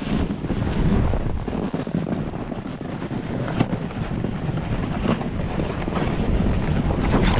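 Wind buffeting the microphone while riding a snowboard downhill: a steady, heavy rush with a low rumble.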